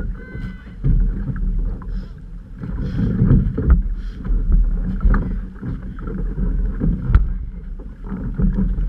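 Outrigger canoe moving through open water: water rushing and splashing along the hull, swelling and fading every second or two, with wind buffeting the microphone.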